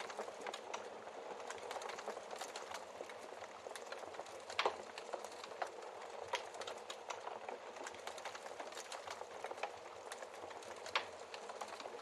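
Wood fire crackling in a fireplace: a soft steady hiss with many small irregular crackles, and two louder log pops, one about halfway through and one near the end.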